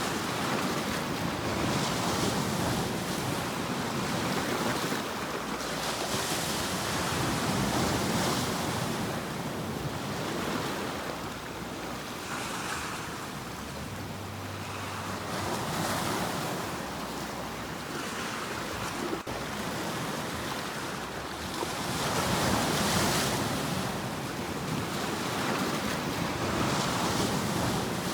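Ocean waves breaking and washing on a shore in a steady wash of surf, swelling and easing every few seconds.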